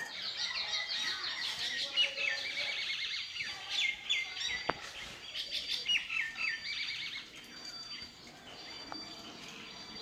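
Birds chirping in quick, repeated runs of high notes, densest over the first seven seconds or so, then thinning to a quieter background.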